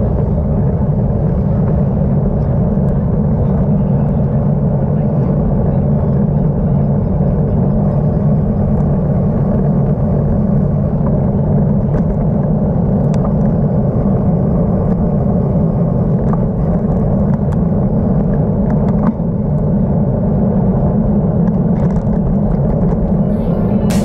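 Steady low rumble of wind buffeting and road noise picked up by a GoPro action camera on a road bike while riding, with traffic noise mixed in.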